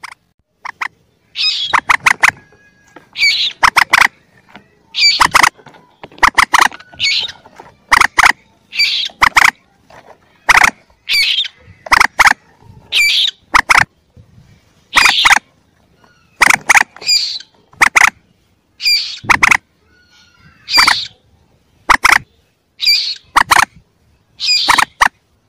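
Juvenile common moorhen calls in a bird-lure recording: quick clusters of sharp, clicking notes, each with a high squeal, repeated about once a second.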